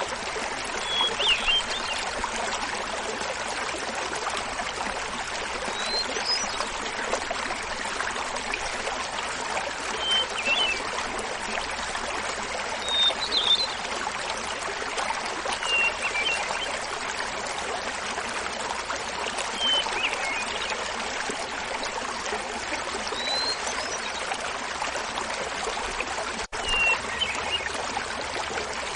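Small waterfall splashing and babbling steadily, with a hermit thrush singing short flute-like phrases every few seconds over it. A momentary dropout in the sound comes near the end.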